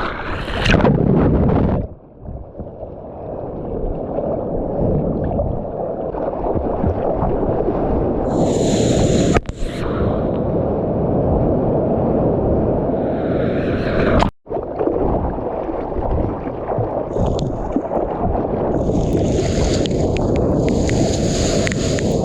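Water rushing and splashing around a GoPro in the surf, with low rumbling wind noise on the microphone and bursts of spray hiss. The sound dips about two seconds in and cuts out sharply about fourteen seconds in.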